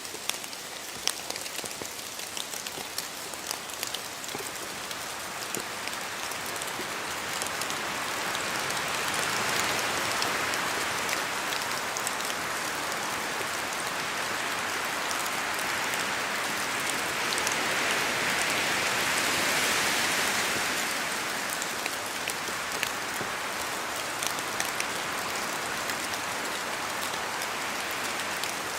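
Steady rain in a forest, with many sharp drips falling from the trees. A rushing of wind swells and fades twice, about ten and about twenty seconds in.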